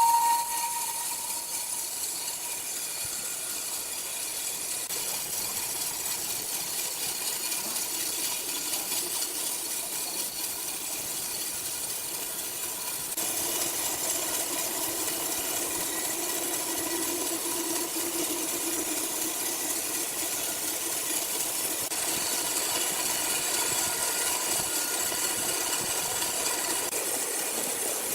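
Sawmill machinery running steadily with a hiss. About halfway through it gets a little louder and a lower hum comes in.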